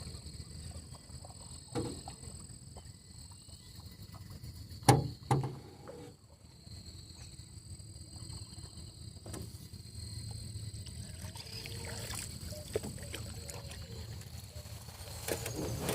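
A motor running slowly, a steady low hum, with two sharp knocks about five seconds in.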